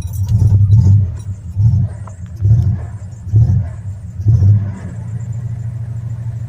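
1982 Ford F100's carbureted 3.8 V6 engine on a cold start, just caught: it surges in revs about five times, roughly once a second, then settles into steady running about five seconds in.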